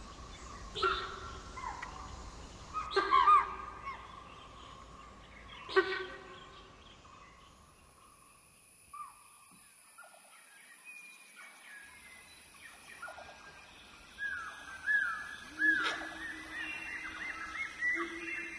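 Spotted deer (chital) giving sharp, shrill alarm calls, four of them in the first six seconds. Then a quieter stretch with a thin, steady, high whine. From about fourteen seconds comes a string of short, falling squeaky animal calls.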